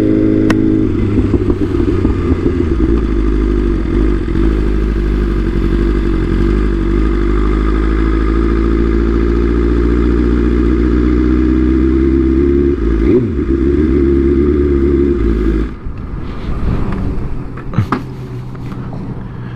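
Motorcycle engine running steadily while riding. About 16 seconds in, the engine sound drops away sharply, leaving quieter sounds with a few clicks.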